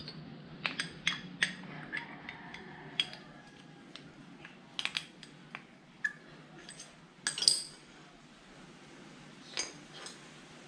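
Small metal parts and tools clinking and tapping against each other while motorcycle brake pads are fitted into the caliper: a string of sharp irregular clinks, the loudest about seven seconds in.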